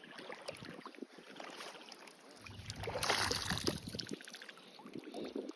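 Water splashing and sloshing as fishing goes on in shallow water, with scattered small knocks; it is loudest in a burst of splashing about three seconds in.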